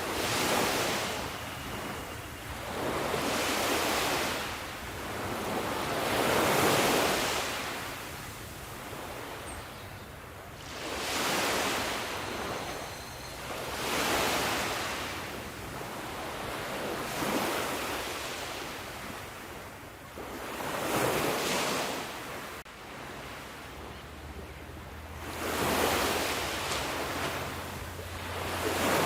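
Ocean waves breaking on a shore, the surf swelling and falling away roughly every two to three seconds in a steady rhythm.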